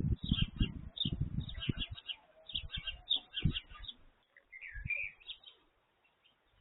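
Small garden birds chirping at a bird bath: quick repeated chirps for the first four seconds, then one warbling call about five seconds in. Low thuds and rumbles run under the chirps for the first two seconds.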